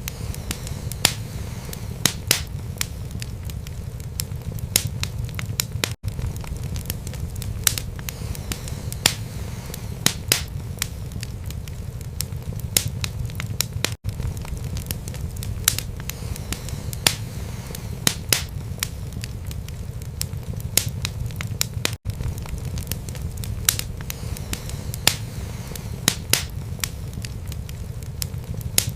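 Wood fire burning in a fireplace: a steady low rumble of flames with frequent sharp, irregular crackles and pops from the burning wood. The sound drops out for an instant about every eight seconds, three times.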